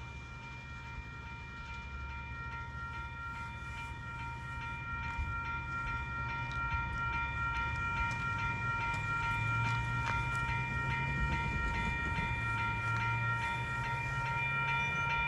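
Train approaching, its low rumble growing louder, with a steady high chord of several tones sounding throughout. Faint regular clicks come in partway through.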